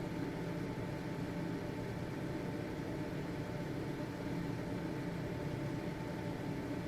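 Household ventilation fan running steadily: an even motor hum and airflow noise with a faint high steady tone.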